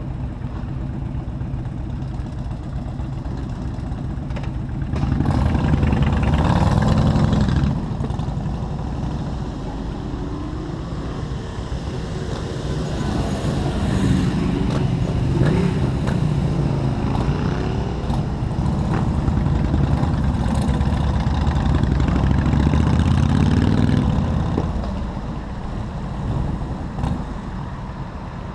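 Motorcycle engine running while riding through city traffic, with road noise. It revs up about five seconds in and again through a long stretch in the middle, its pitch rising and falling.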